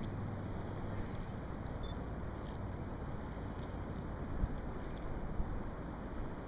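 Steady rush of wind and water on the water around the kayaks, with a couple of faint knocks about four and five seconds in.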